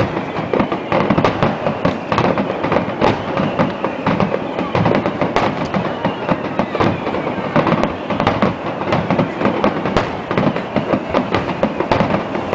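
Aerial fireworks going off in a dense, unbroken run of rapid bangs and crackling.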